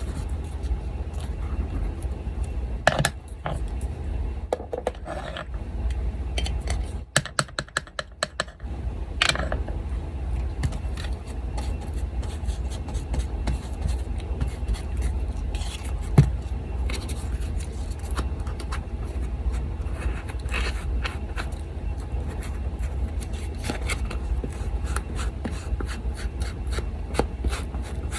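Paper being handled, scraped and cut with scissors: scattered rustles, scrapes and snips, with a quick run of clicks about seven seconds in. An electric fan hums steadily underneath.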